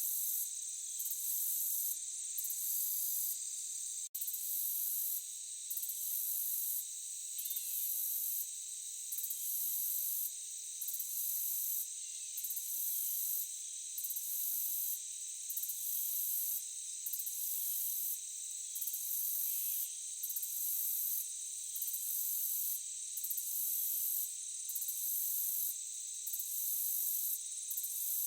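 Forest insect chorus: a steady high-pitched trill under a higher chirping pulse that repeats about once a second. The sound cuts out for an instant about four seconds in.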